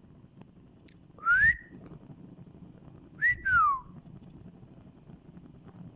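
Two whistles: the first, about a second in, rises steadily; the second, around the middle, rises briefly, then slides down in a long falling glide.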